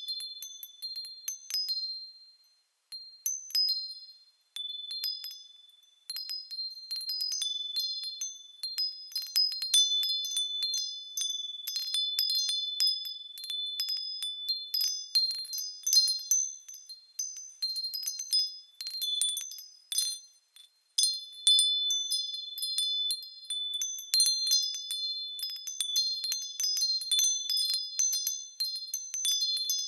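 Small bells swinging and ringing, many high-pitched strikes overlapping into a continuous tinkling, with a few short pauses in the first several seconds and again about two-thirds of the way through.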